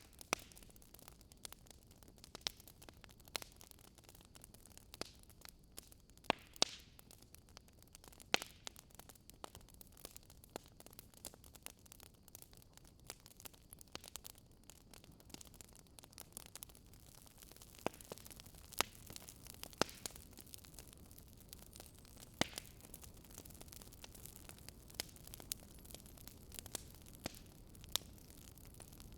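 Fireplace fire crackling quietly: irregular sharp pops and snaps of burning wood over a soft steady hiss.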